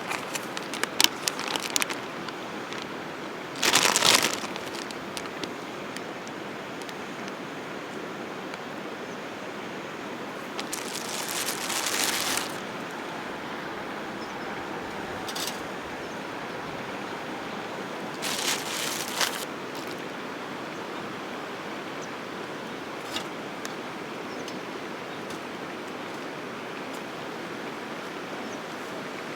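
Wood campfire burning: a few sharp pops and crackles over a steady rushing noise, with several short louder bursts about 4, 12 and 19 seconds in.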